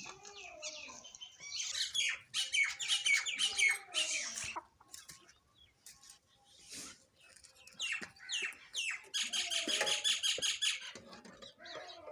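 Sparrows chirping: two busy bouts of rapid, repeated chirps, the first about two seconds in and the second from about nine seconds, with sparser calls in between.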